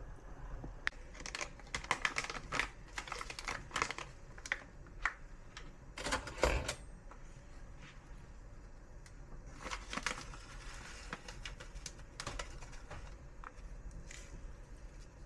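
Irregular light clicks and taps in scattered clusters, the loudest burst about six seconds in.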